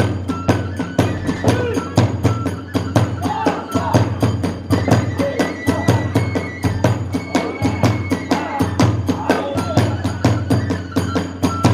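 Kagura hayashi ensemble playing: drums and hand cymbals beating a fast, steady rhythm under a transverse flute holding high notes that step from one pitch to another.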